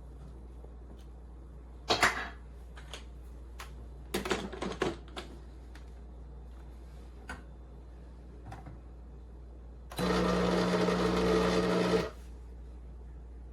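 Several clicks and knocks of cups and machine parts being handled, then a small electric coffee appliance buzzing steadily for about two seconds before it stops.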